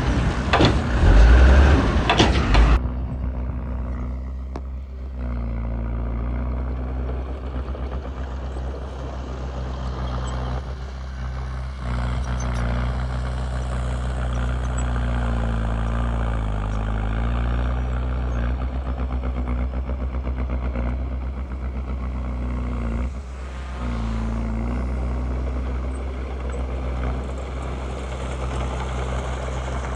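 Heavy diesel machinery engine running. A loud, rough burst of noise fills the first three seconds and cuts off suddenly. After that the engine hums steadily, its pitch dipping and recovering a couple of times as the load changes.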